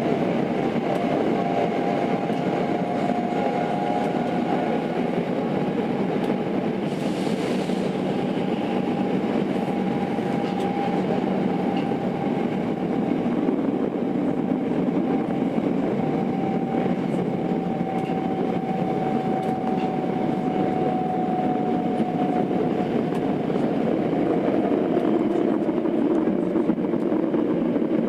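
Tokyo Metro 02 series subway car running, heard from inside the car: a steady rumble of wheels and motors with a thin tone that slowly drops in pitch. A brief hiss comes about seven seconds in.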